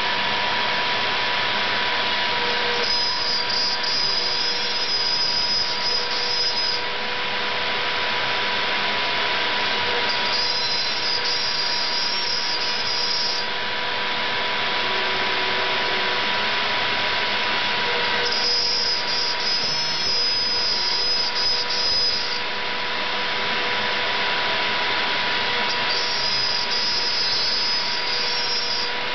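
CNC gantry router's spindle running steadily as it mills plywood. A higher whine comes and goes four times, each time for three or four seconds.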